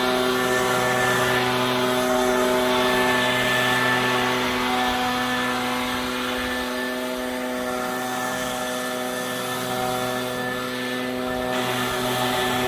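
Gas-engine leaf blower running steadily, blowing leaves out of a roof gutter. It eases off a little in the middle and picks up again near the end.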